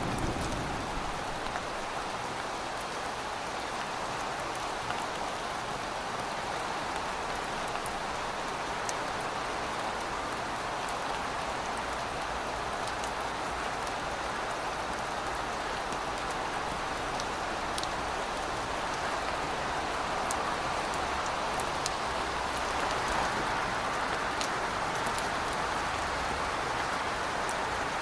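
Steady rain falling: a constant hiss with scattered individual drops ticking through it.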